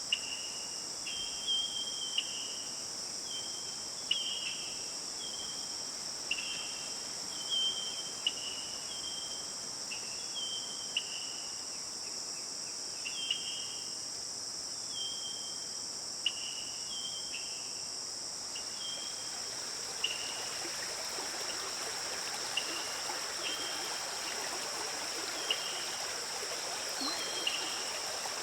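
A steady, high-pitched chorus of crickets or other insects, with a short two-note chirp repeated every second or two. About two-thirds of the way through, the rushing of a stream fades in underneath.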